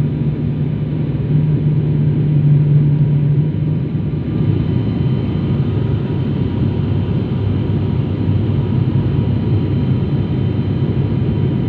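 Airliner cabin noise on descent: a steady rumble of engines and airflow heard from inside the cabin, with a low hum that shifts lower about four seconds in.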